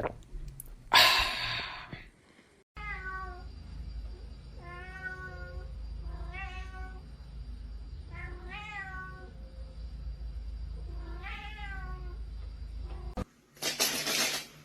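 A cat meowing five times, each meow short and arched in pitch, a second or two apart, over a steady low hum. A short burst of noise comes about a second in, and another near the end.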